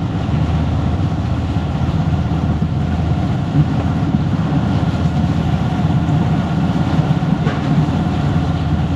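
Motorcycle engine running steadily at low road speed while riding, with road and wind noise.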